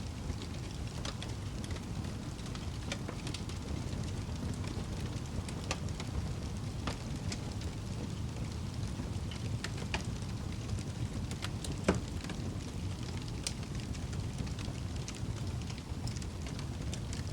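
Fire burning in a fireplace: a steady low rumble of the flames with scattered crackles and pops, the sharpest pop about twelve seconds in.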